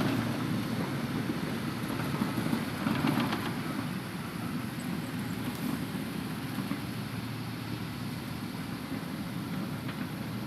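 Hitachi Zaxis 200-5G excavator's diesel engine running steadily, with a brief rattle about three seconds in.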